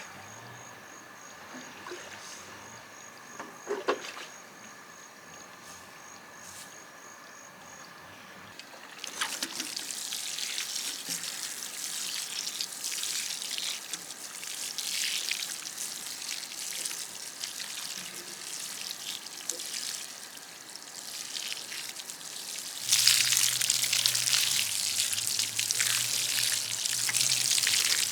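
Water trickling and pouring, starting about a third of the way in and getting louder near the end, where a low steady hum joins it.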